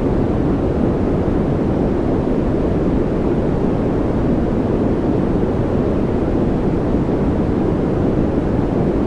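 Steady white-noise sound: an even, unbroken hiss weighted toward the low end, so it sounds deep and rushing rather than bright, with no change at all.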